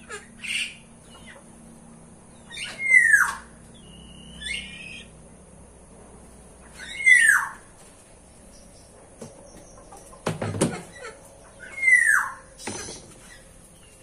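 A bird repeats a loud call three times, about four seconds apart, each a sharp note sliding quickly down in pitch, with fainter chirps between. A single knock sounds about ten seconds in.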